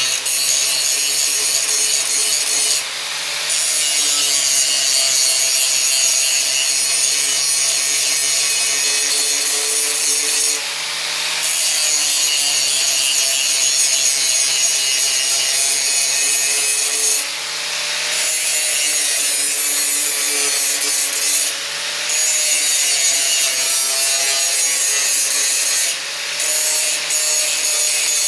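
Angle grinder grinding down welds on sheet metal: a steady harsh grinding with the motor's whine sagging slightly under load. The grinding breaks off briefly several times as the disc is lifted from the metal.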